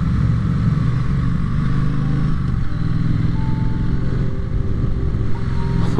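Triumph Street Twin's 900 cc parallel-twin engine running as the motorcycle rides along at steady speed; the engine note shifts about two and a half seconds in.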